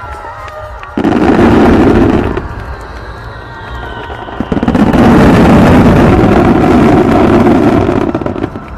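Fireworks shells bursting in loud, dense barrages. The first starts suddenly about a second in and lasts just over a second; a longer one sets in about halfway through and runs for nearly four seconds before dying away.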